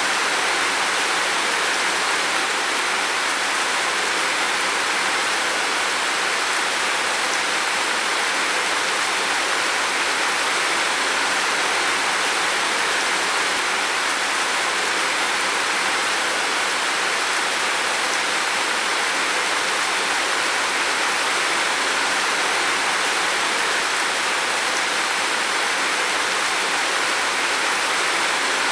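Heavy rain falling steadily on a roof: a dense, even hiss of drops with no single hits standing out.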